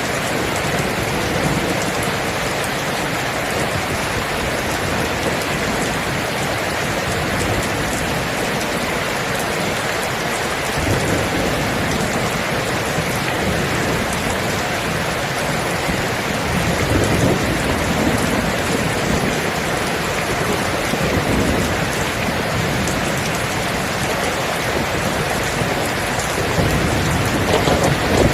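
Steady rain pouring down, with low thunder rumbling in the distance several times and swelling louder near the end.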